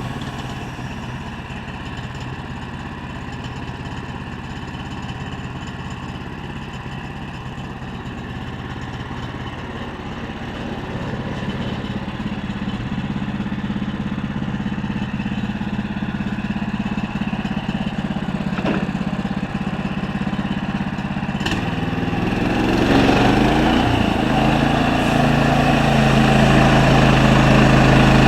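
A sawmill's engine running steadily. Near the end the sound grows louder and rougher, and the engine's pitch dips briefly as it takes on load.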